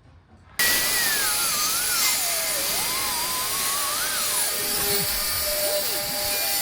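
An electric power tool starts suddenly and runs steadily with a loud hiss, while a faint whine drifts up and down in pitch.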